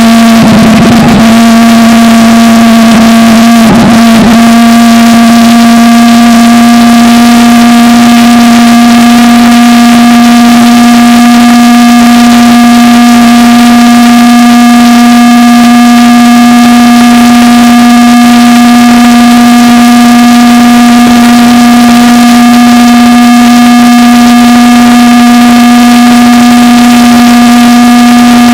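Propane-fuelled valveless pulse jet engine running: a loud, steady drone at one fixed pitch with overtones. It settles onto that pitch right at the start, wavers briefly about four seconds in, then holds steady.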